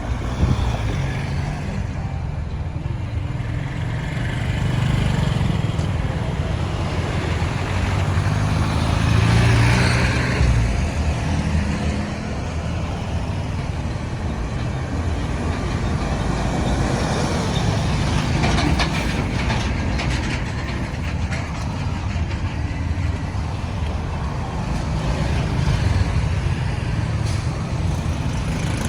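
Road traffic going by: trucks, cars and motorbikes passing, a steady low rumble of engines and tyres that swells as vehicles come close, loudest about a third of the way in.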